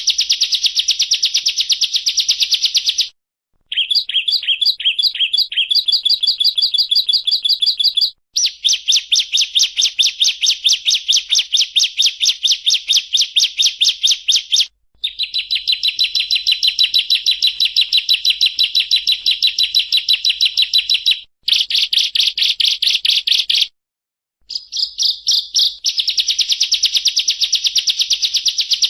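Ciblek (prinia) song: long, very fast trills of sharp, high chirps, the rattling 'ngebren' delivery. One stretch early on slows to separate notes that drop in pitch, and the song breaks off for a moment several times.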